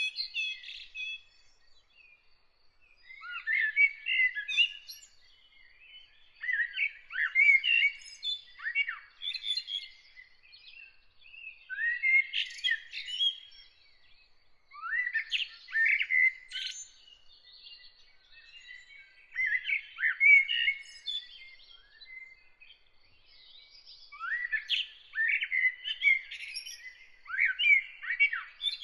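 A songbird singing outdoors in a run of warbled, chirpy phrases, each about two seconds long, separated by pauses of a second or two.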